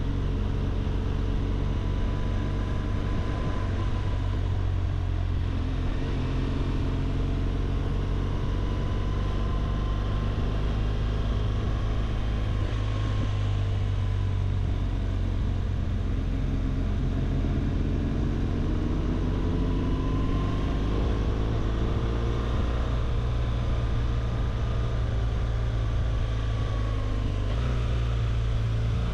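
BMW R 1200 GS flat-twin boxer engine running while riding, a deep steady rumble. Its pitch drifts gently and climbs for a few seconds around the middle as the engine speed rises.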